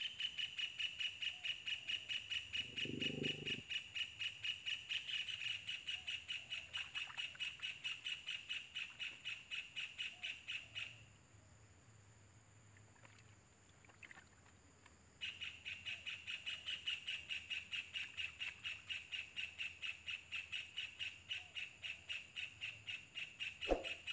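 Kingfisher nestlings in their burrow nest calling in a fast run of high, same-pitched notes, about four a second. They fall silent about 11 seconds in and start again about 15 seconds in. There is a short low rumble early on and a sharp click near the end.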